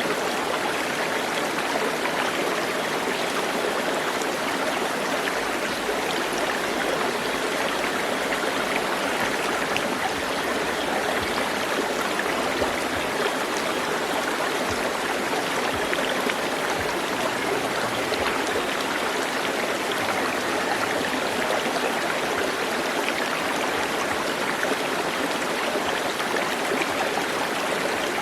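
Flowing water running steadily, a continuous even rush like a stream.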